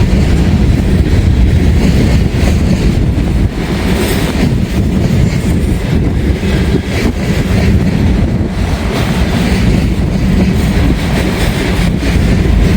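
Empty steel gondola cars of a Norfolk Southern freight train rolling past close by: a steady loud rumble with wheel clatter.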